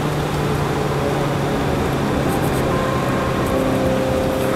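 Renault Clio's engine and road noise heard from inside the cabin at track speed, steady in level, with the engine note stepping up in pitch about three seconds in.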